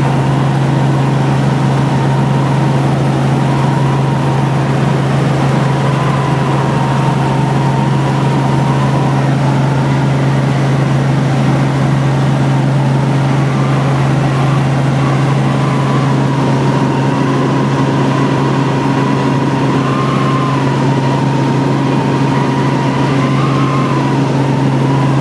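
Helicopter in flight heard from inside the cabin: a loud, steady low drone with a fainter whine above it that wavers slightly in pitch.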